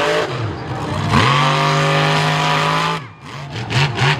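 Monster truck engine revving hard: the revs climb quickly about a second in and hold high for about two seconds, then the throttle drops off and comes back in short blips.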